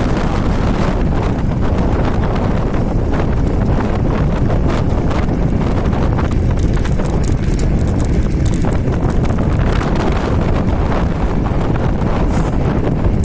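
Wind buffeting the microphone while an electric scooter with a hoverboard hub motor is ridden, with a steady run of rattling knocks from the scooter as it rolls.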